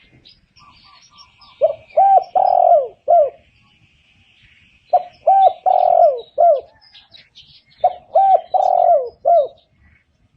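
Spotted dove cooing its song three times, about three seconds apart. Each phrase is four notes: two short coos, a longer drawn-out coo, then a short final one, each note falling at the end. Faint high twittering of small birds runs underneath.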